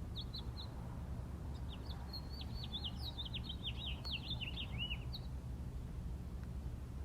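A bird singing: a few quick high notes, then a fast twittering run of sharply falling notes lasting about four seconds, over a steady low rumble.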